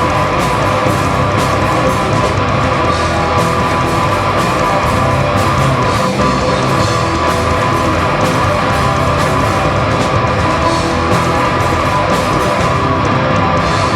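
Heavy rock band playing live without vocals: distorted electric guitars with bass and drums, loud and steady.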